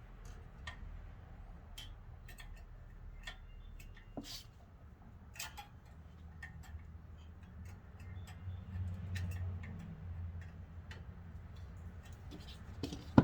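Irregular light metallic clicks and taps from hand tools and brake parts being worked, roughly one a second, with a low hum swelling in the middle and one sharp knock near the end.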